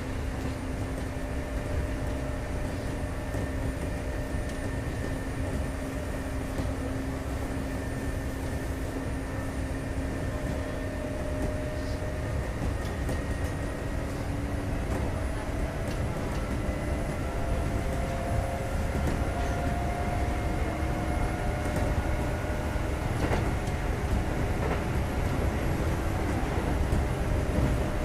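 Kintetsu 2430 series electric train running between stations, heard from inside the car: a steady rumble of wheels on rail under a gear and motor whine. The whine's pitch rises in the second half as the sound grows slightly louder, with a few faint rail-joint clicks.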